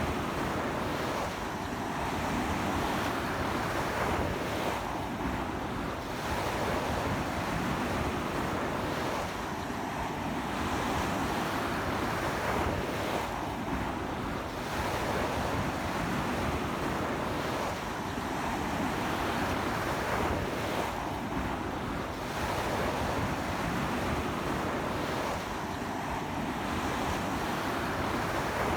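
Ocean surf breaking continuously on a sandy beach in strong onshore wind. It swells and eases every few seconds as successive waves come in, with wind buffeting the microphone.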